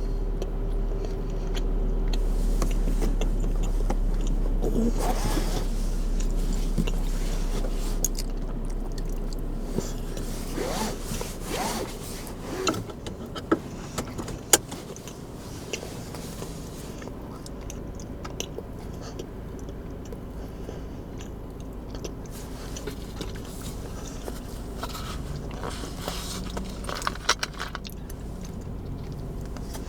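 Strong wind buffeting a car, heard inside the cabin as a deep rumble that eases after about eight seconds. It is followed by scattered scrapes and clicks of things being handled in the car.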